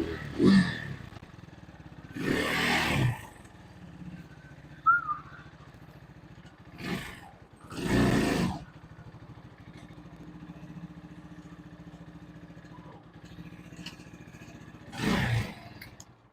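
Vitacci GTT250's 229cc air-cooled single-cylinder four-stroke engine idling, revved briefly several times, with one longer rev about two seconds in.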